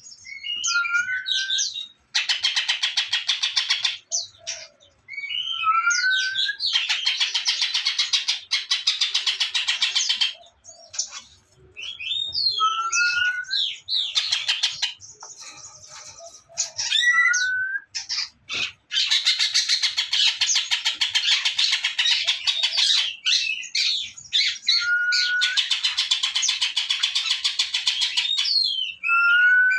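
Songbird song: long runs of fast, rattling chatter trills, broken every few seconds by short sweeping whistled notes.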